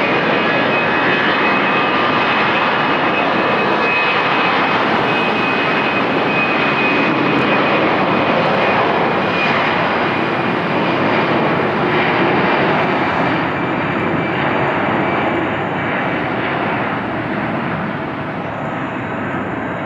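Airbus A320-214's twin CFM56 jet engines at takeoff thrust: a loud, broad roar with a steady high whine on top, easing off over the last few seconds as the aircraft moves away.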